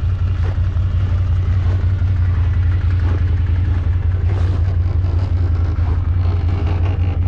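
Snowmobile engine idling steadily, a loud, even low hum.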